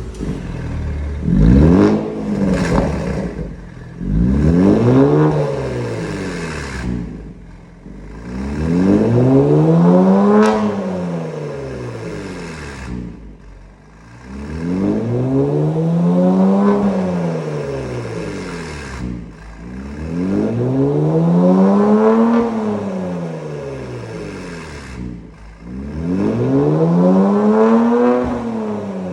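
Kia Stinger 3.3T's twin-turbo 3.3-litre V6 through a titanium downpipe and an electronic valve exhaust. It gives two quick blips, then is revved up and let fall back five times, each rev rising smoothly and dropping over a few seconds.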